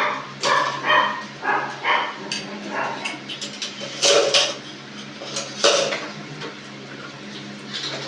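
A dog barking in a series of short barks, loudest about four and six seconds in, over a steady low hum.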